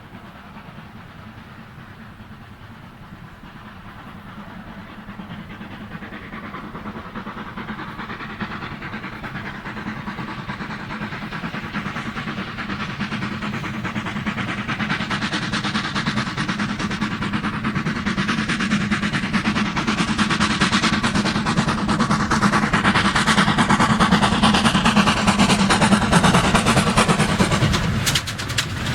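A train on the line, growing steadily louder as it approaches, with a sudden break about a second before the end.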